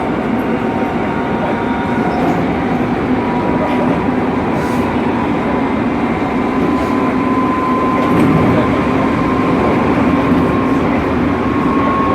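Hokuso Railway 9100-series electric train running, heard from inside the front car: a steady rumble of the running gear, with a motor whine that rises slowly in pitch as the train gathers speed.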